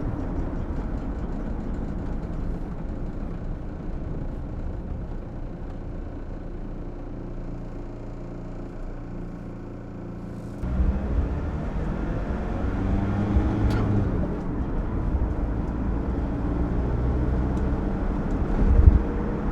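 VW T3 Syncro van's engine and drivetrain heard from the cab on a road test: running steadily at a lower level, then about ten seconds in it suddenly pulls louder and climbs in pitch as the van accelerates. A sharp click sounds a few seconds later, and a short low thump comes near the end.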